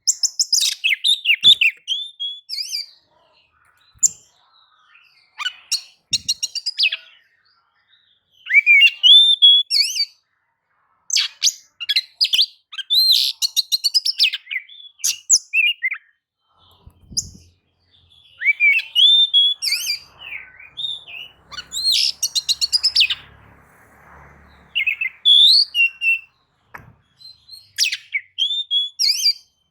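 Oriental magpie-robin (kacer) singing: phrases of loud, varied whistles, pitch sweeps and rapid buzzy trills, broken by short pauses.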